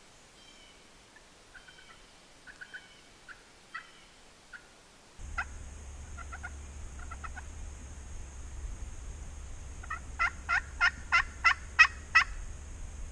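Wild turkey calling: a run of about eight loud, evenly spaced notes lasting a little over two seconds near the end, with fainter scattered calls earlier. A steady low hum and hiss come in about five seconds in.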